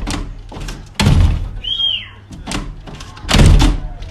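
Heavy thuds, one about a second in and a louder one past three seconds, with a short high squeak between them.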